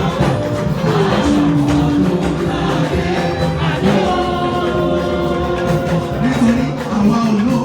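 Church choir singing a gospel anthem with musical accompaniment, holding long notes in several voice parts.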